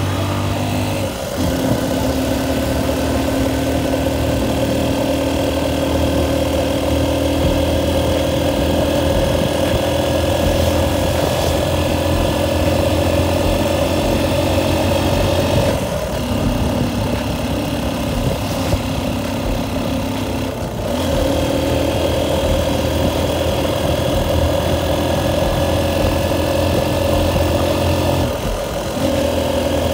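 Motorcycle engine running steadily under way, heard from the moving bike, with its note dipping briefly a few times.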